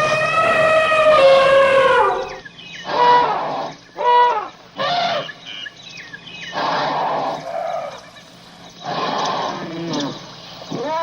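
Animal calls: one long pitched call for about two seconds, then a few short calls, then rougher, noisier cries near the end.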